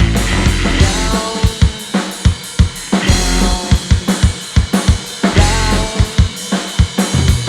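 Live rock trio playing an instrumental passage: a drum kit with kick, snare and cymbal hits to the fore, over bass and electric guitar.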